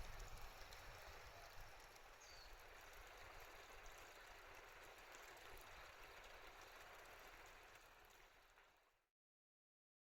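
Faint, steady rushing of water with no distinct events, fading out to complete silence about nine seconds in.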